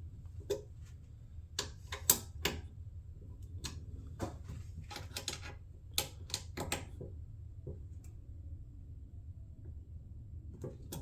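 Irregular sharp clicks and knocks of small hardware being fitted by hand: screws, washers and clip fasteners going into a plastic fender shroud, over a steady low hum.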